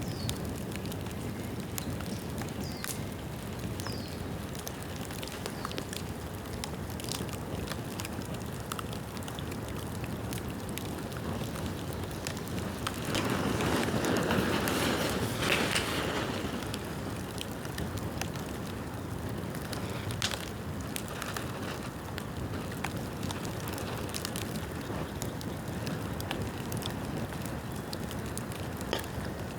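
Bamboo bonfire burning, a steady crackle with scattered sharp pops. A louder rush swells up about 13 seconds in and dies down about three seconds later.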